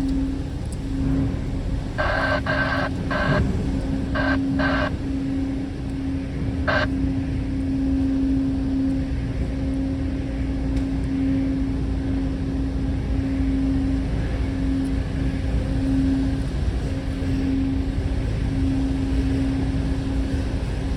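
Steady low engine rumble with a constant hum, joined a couple of seconds in by a run of short electronic beeps: three close together, two more, then a single one.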